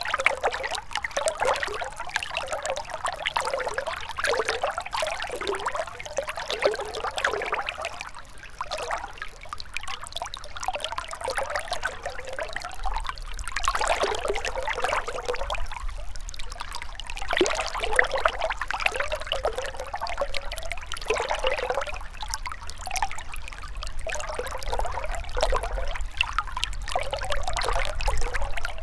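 Gentle river flowing: a steady, restless babbling and trickling of water.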